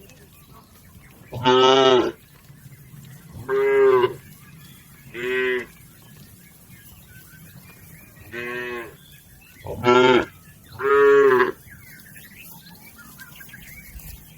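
Cattle mooing: six short calls over about ten seconds, the fourth softer than the rest and the last two close together.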